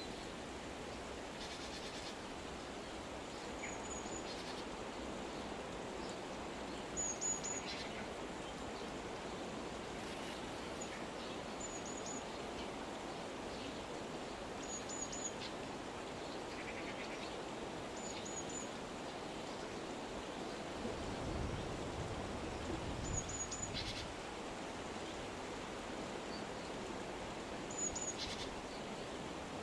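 Steady outdoor rushing noise with a small bird giving a short, high double chirp every few seconds. There are a few low rumbles about two-thirds of the way through.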